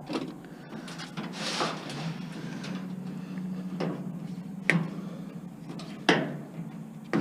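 Scrap appliance being stripped by hand: rustling and scraping as wiring is worked loose, then three sharp metal knocks in the second half, over a steady low hum.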